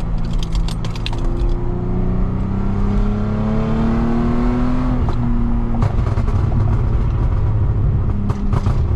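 Lexus IS250's V6 under an ECU tune accelerating, its pitch rising steadily for a few seconds until the throttle lifts about five seconds in. A scattering of sharp exhaust pops comes near the start and after the lift, subdued because the exhaust valves are closed, heard from inside the cabin.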